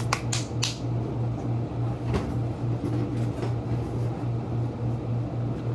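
A steady, low pulsing hum from a running kitchen appliance, with a few sharp clicks in the first second and another about two seconds in.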